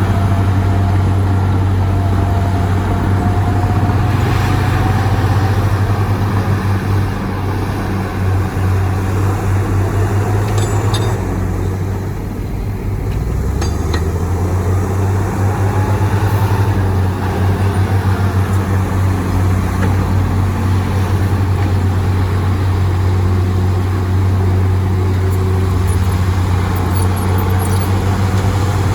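Heavy earthmoving diesel engines, from dump trucks and bulldozers, running with a steady low drone. The level eases briefly about twelve seconds in.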